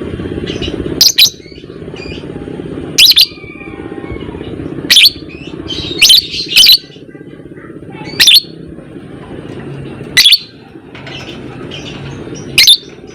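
Lovebirds calling: about eight loud, short, shrill calls at irregular gaps of one to two seconds, with softer high chirping between them. A steady low background noise runs under the calls.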